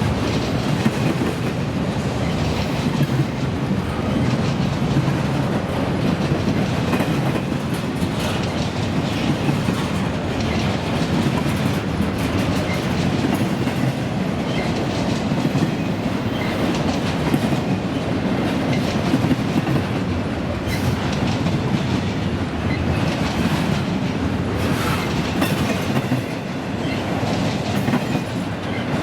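Freight train cars rolling steadily past, the wheels clacking and clattering over the rails the whole time.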